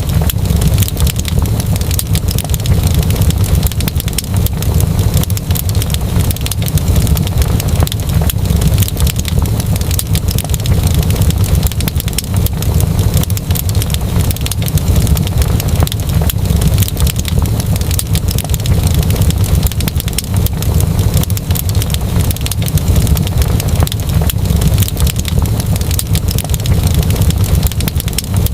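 Wood fire crackling steadily, with many small crackles and pops over a continuous low rumble.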